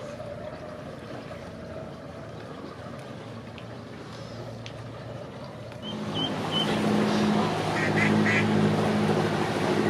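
Boat engine running steadily, becoming louder about six seconds in as the boat comes close, with ducks quacking over it.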